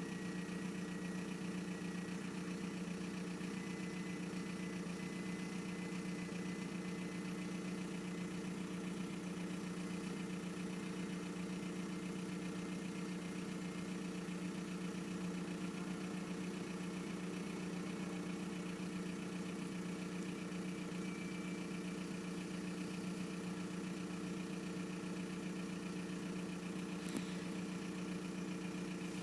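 1999 VW Golf Mk4 GT TDI's 1.9-litre AHF four-cylinder turbodiesel idling steadily, an idle the owner calls lumpy and rough. A single click near the end.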